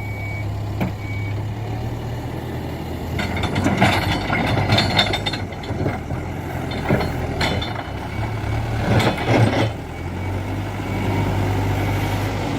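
Hidromek 102B backhoe loader's diesel engine running steadily, with the bucket scraping and knocking against rock and stones in three loud bursts through the middle.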